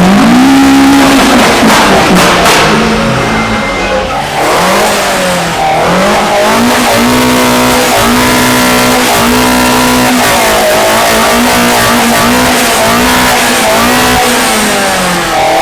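A car engine being revved hard over and over. Its note climbs, holds high briefly and drops back, about once a second through the second half.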